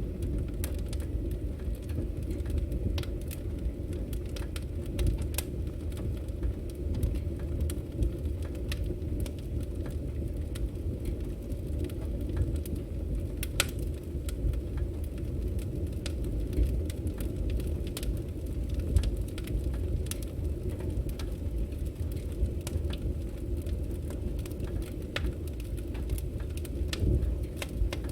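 Firewood burning and crackling: a steady low rumble of the flames with scattered sharp pops and snaps throughout.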